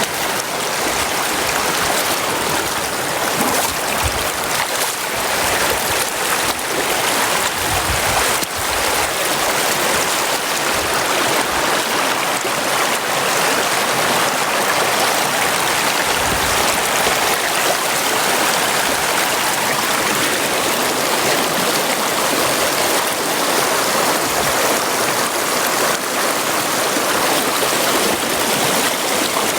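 Flowing stream water rushing steadily over rocks.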